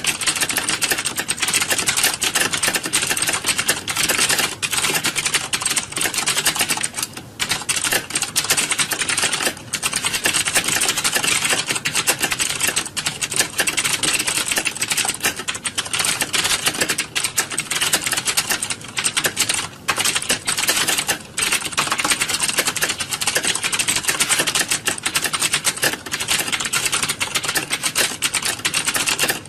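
Many computer keyboards being typed on at once, a dense, continuous clatter of overlapping key clicks like an exam hall full of typists.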